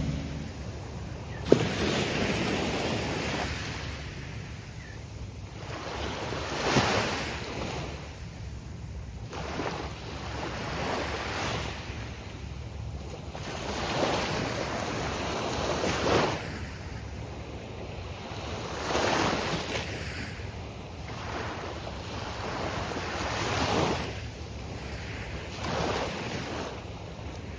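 Gulf of Mexico surf breaking on a sandy beach, the wash rising and falling every few seconds. A single sharp click sounds about a second and a half in.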